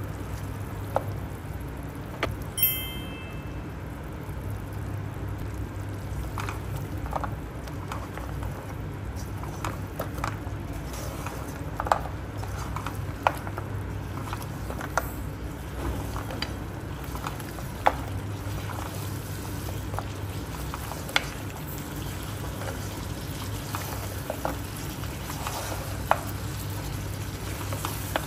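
Mutton trotters frying in oil and red chili masala in a non-stick pan, sizzling steadily, with scattered sharp clicks and pops from the spatula and the spitting oil. A low steady hum runs underneath.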